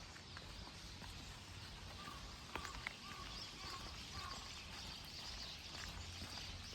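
Outdoor ambience of a walk in light rain: a steady faint hiss, two sharp taps about two and a half seconds in, and a short call repeated several times in quick succession.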